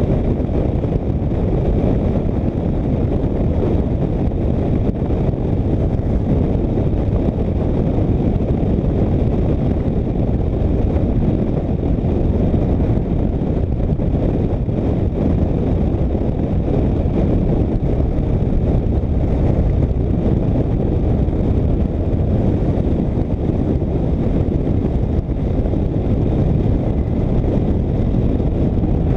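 Motorcycle riding at highway speed: steady wind rush on the microphone over the engine and road noise.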